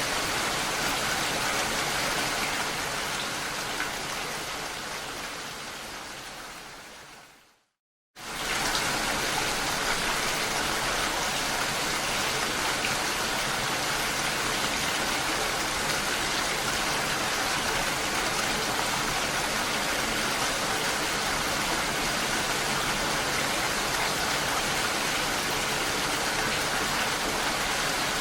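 Steady hiss of rain that fades out about seven seconds in, drops to a brief silence, then starts again abruptly at full level and continues evenly.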